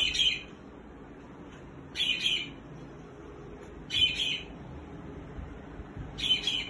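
A bird calling: four short, high-pitched calls, about two seconds apart.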